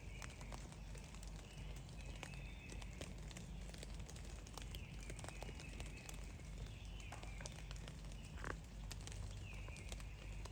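Short, soft calls of wild turkeys approaching, repeating about every two seconds, over scattered light taps.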